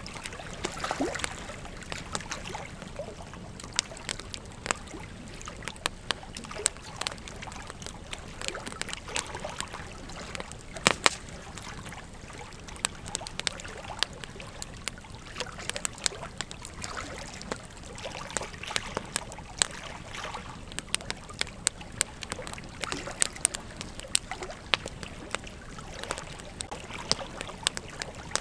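Wood campfire crackling: irregular sharp pops and snaps over a steady hiss, with one louder pop about eleven seconds in.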